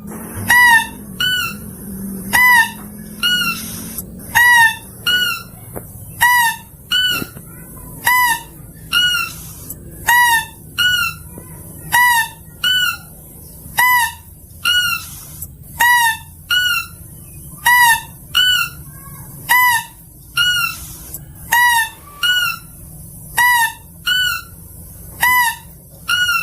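Mouse-deer (kancil) lure call: short pitched calls repeated about once a second in pairs, each bending in pitch at its end, played to attract mouse-deer.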